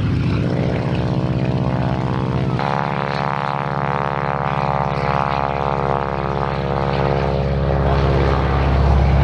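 Propeller aircraft engine running at steady power, its pitch rising slightly at first and then holding steady after an abrupt change about two and a half seconds in.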